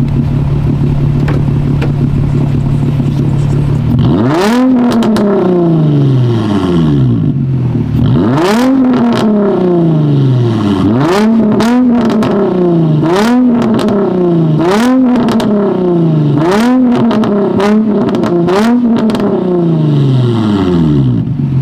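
Infiniti G35's 3.5-litre V6 through a muffler-and-resonator-delete straight-pipe exhaust: idling, then blipped in about eight quick revs, each falling away with pops and burbles, before settling back to idle near the end.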